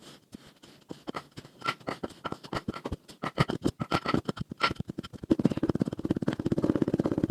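Kinetic sand being cut: a series of crisp crunches and clicks, turning into a faster, louder run of crunches about five seconds in.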